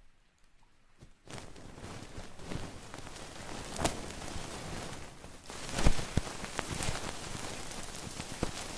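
Close-up crackling and rustling that starts about a second in and carries on densely, with a few sharper taps among it.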